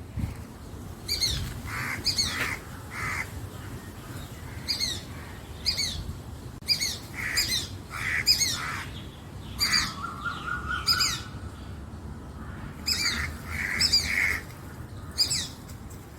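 Crows cawing harshly again and again, mixed with high, shrill falling calls from another bird that come in quick pairs, and a short fast run of notes about ten seconds in.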